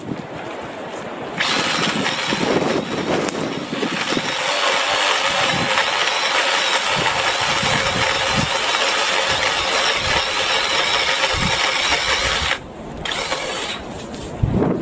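BLACK+DECKER 18V cordless saw's motor running at full speed through a branch for about eleven seconds, then cutting off suddenly, with a short second run just after.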